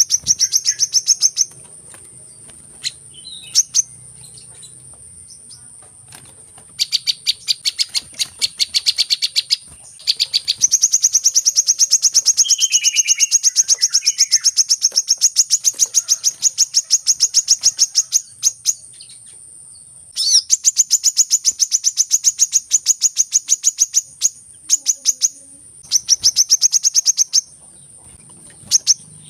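Sunbird calling in long runs of rapid, evenly spaced high chirps. The runs last from one to eight seconds and are split by short breaks. It is a call used to lure sunbirds in, heard over a steady high-pitched tone.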